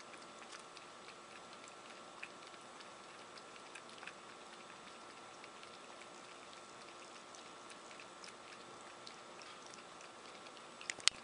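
Ferret moving about, its claws making faint, scattered clicks and light pattering, with a few louder clicks near the end.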